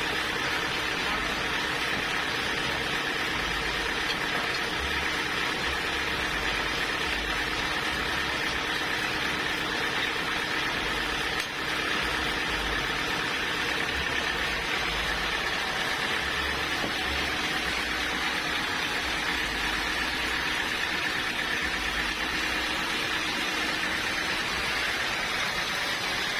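Sawmill machinery running steadily, a continuous mechanical drone with a few steady tones over a hiss and no change in level.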